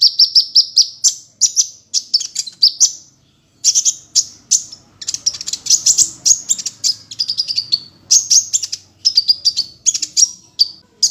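Kolibri ninja sunbird singing: a fast, high-pitched chattering song of rapid repeated notes in quick phrases, with a brief pause about three seconds in.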